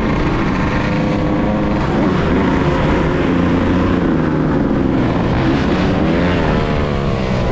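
Yamaha YZ125's two-stroke single-cylinder engine running under way, its pitch shifting with the throttle, with a dip and climb in revs about six to seven seconds in.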